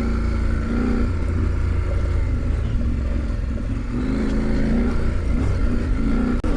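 KTM 890 Adventure's parallel-twin engine pulling along a dirt road, its note rising and falling with the throttle, over a constant low rush of wind and tyre noise.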